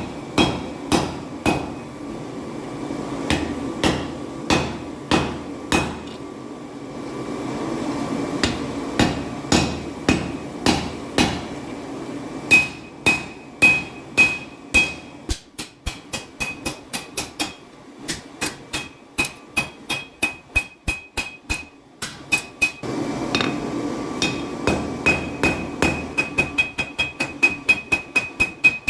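Hand hammer striking 5160 leaf spring steel on an anvil while forging a knife blade: a long run of blows with a ringing tone after each, about one and a half a second at first and quicker near the end. A steady low hum sits behind some stretches.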